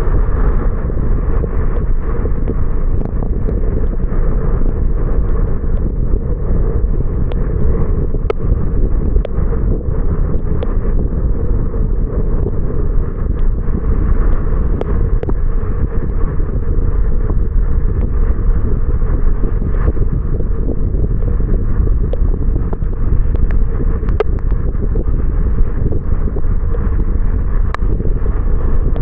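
Steady low rumble of a car driving on wet roads in the rain: tyre and road noise with wind on the camera's microphone, and a few faint scattered ticks.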